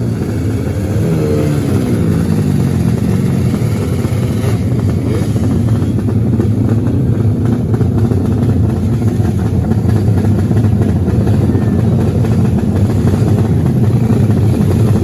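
Racing motorcycle engines revving, with rising and falling pitch in the first couple of seconds, then running hard together in a dense, steady drone.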